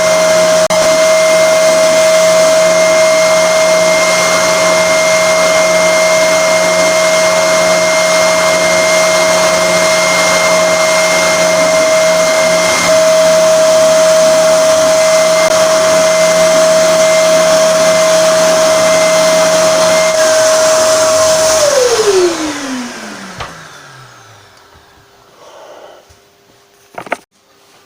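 Spindle sander running with a steady whine while the edges of a guitar body are sanded. A lower hum drops out about 20 seconds in. About two seconds later the sander is switched off and its whine falls in pitch as the motor spins down, followed by a single knock near the end.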